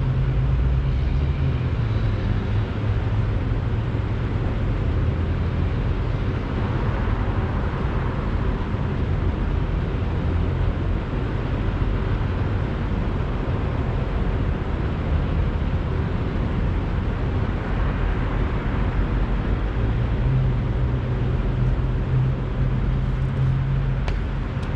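Idling semi-truck diesel engines: a steady low drone with a noisy hiss over it.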